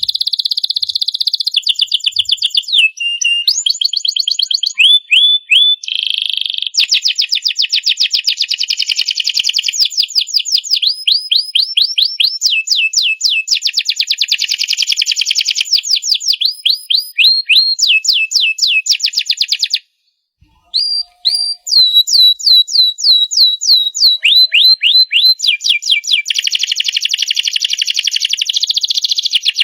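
Domestic canary singing a long, continuous song of rolling trills and rapid runs of repeated down-sliding whistled notes, several per second, changing phrase every few seconds. The song breaks off for about a second two-thirds of the way through, then resumes.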